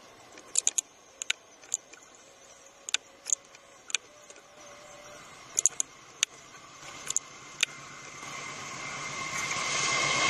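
Diesel locomotive and its train approaching on curved track, its running sound swelling steadily over the last few seconds with a steady high tone in it. Before that, sharp irregular clicks, about a dozen, stand out over the quiet.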